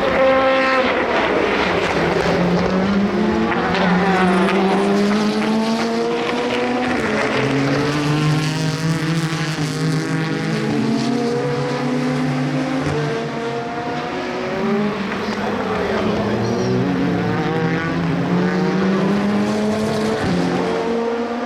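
Several endurance race cars running together past the track edge, their engine notes overlapping and sliding down and up in pitch as they brake and change gear.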